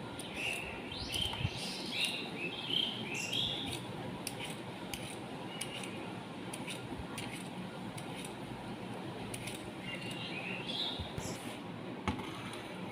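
Birds chirping in short bursts of small calls, a run of them in the first few seconds and another near the end, over a steady background hiss with scattered light clicks.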